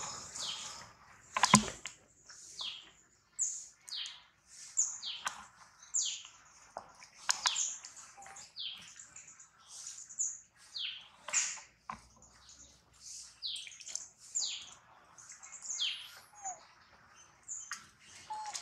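Birds chirping in short, quickly falling calls, about one a second, with a single sharp knock about a second and a half in.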